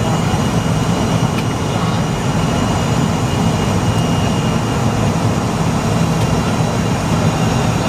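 Steady jet-engine and rushing-air noise heard from inside a McDonnell Douglas MD-80 airliner in flight, its rear-mounted Pratt & Whitney JT8D engines running evenly, a low, unchanging drone.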